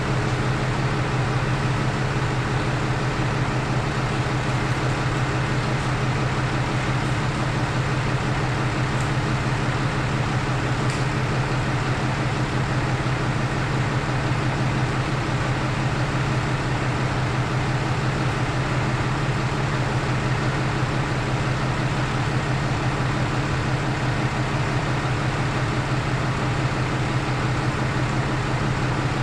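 A 2012 Ram 3500's 6.7-litre Cummins turbo-diesel engine running at a steady, unchanging speed with a constant low hum.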